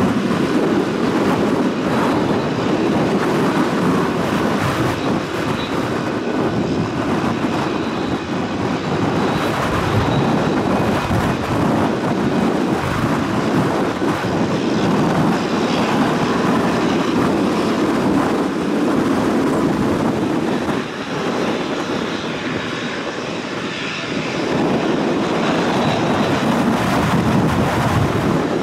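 TBM 700's single turboprop engine running steadily with a faint high whine, under heavy wind rumble on the microphone.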